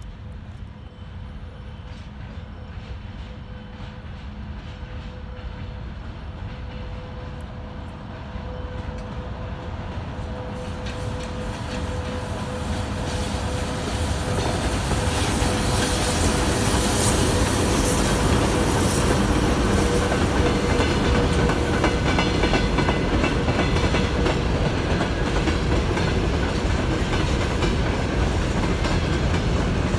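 VL80S twin-section electric locomotive approaching with a steady hum, growing louder for about fifteen seconds as it nears and passes. It is followed by a loaded freight train of hopper wagons rolling by, wheels clattering over the rail joints.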